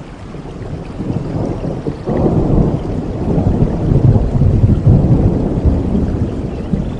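Steady rainfall, with a low rolling rumble of thunder that swells about a second in and stays loud through the middle before easing slightly.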